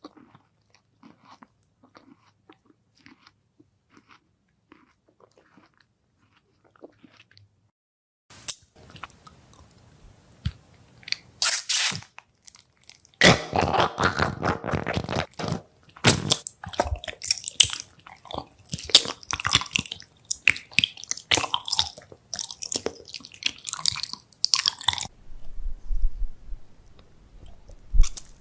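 Close-miked eating sounds: faint soft chewing at first, then from about eight seconds in loud, crisp crunching bites and chewing that ease off near the end.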